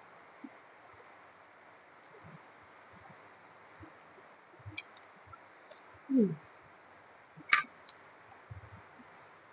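Person eating, close up: soft chewing and small wet mouth clicks. About six seconds in there is a short, loud, falling low sound, and a sharp click about a second and a half later.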